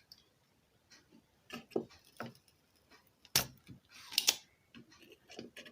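Scattered small clicks, taps and a brief metallic rattle of tools and electronic parts being handled on a workbench, with one sharper click about midway.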